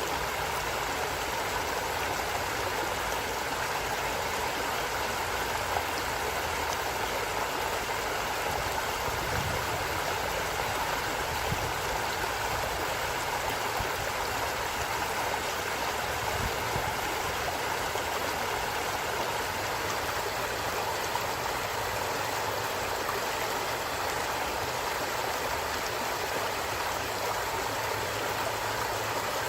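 Flowing stream water, a steady rushing and gurgling with no breaks.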